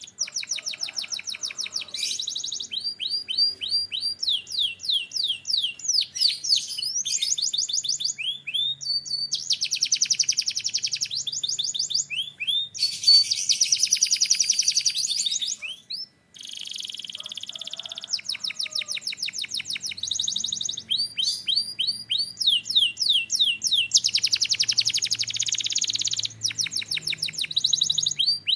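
Domestic canary singing a long continuous song. Runs of quick, repeated rising-and-falling whistled notes alternate with fast, dense trills, broken by one brief silence a little past halfway.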